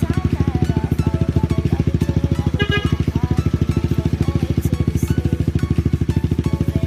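Motorcycle engine idling steadily through a Yoshimura aftermarket exhaust: an even, rapid pulsing exhaust note that holds the same pace throughout, with no revving. Music plays faintly over it.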